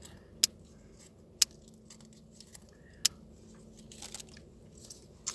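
Three sharp snips as artificial flower stems are cut, with light rustling and small clicks from handling the flowers in between.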